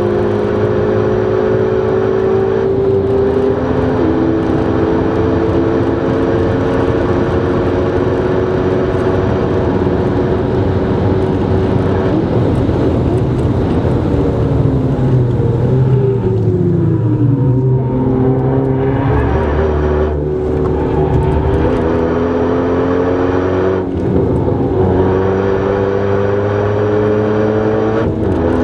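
Renault Mégane R26's turbocharged 2.0-litre four-cylinder engine at full throttle, heard from inside the cabin on track. It climbs in pitch through the gears with a short break at each upshift, and around the middle falls and wavers through downshifts under braking before pulling up again.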